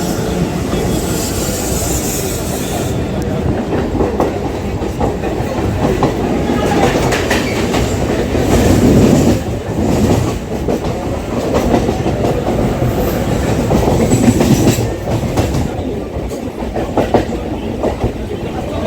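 Suburban local train running, its wheels clattering over the rail joints with a steady loud rumble.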